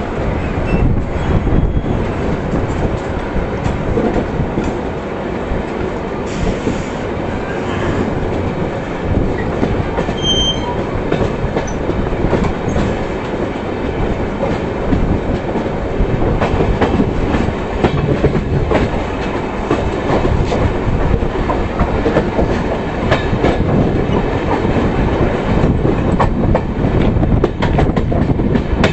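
Passenger express train running along the track: a steady rumble with the wheels clattering over rail joints.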